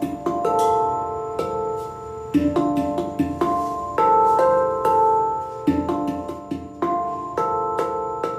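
Handpan being played: struck steel notes ring on and overlap in a flowing melody, with quick light taps between the longer notes.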